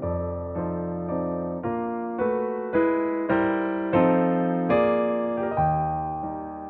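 Background music: a slow electric piano melody of single struck notes, each fading away, about two notes a second.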